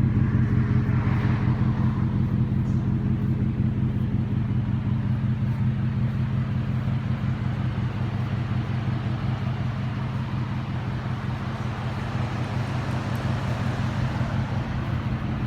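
A 2013 Ford F-150 pickup's engine idling steadily: a low, even hum.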